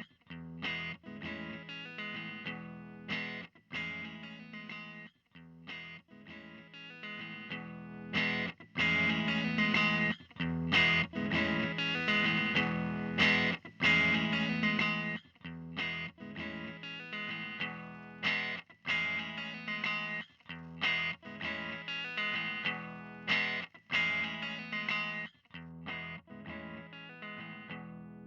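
Electric guitar played through a Dr. Z Maz 18 NR 2x10 EL84 tube combo amp: chords and notes struck one after another with short pauses between them, louder and busier from about 8 to 15 seconds in.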